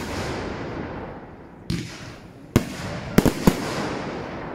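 Fireworks bursting: a bang just under two seconds in, a louder one a little later, then a quick cluster of three bangs, each trailing off into a fading hiss.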